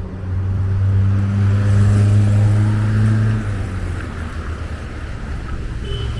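A heavy engine runs close by with a loud, steady low hum for about three and a half seconds, then drops away. A thin high tone starts near the end.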